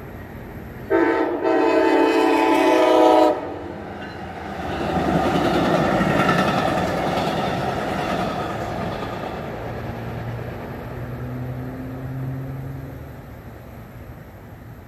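MARC commuter train sounding its horn in one blast of about two seconds, starting about a second in, then rushing past the grade crossing with wheel and coach noise that swells and slowly fades.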